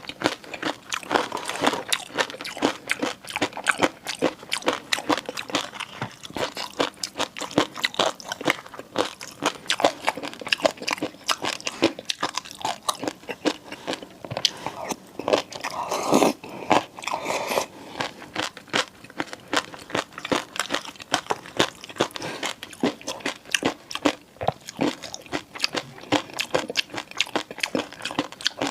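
Close-miked eating sounds: continuous chewing and biting made up of dense, fast, crackly clicks, with one longer, louder mouth sound about halfway through.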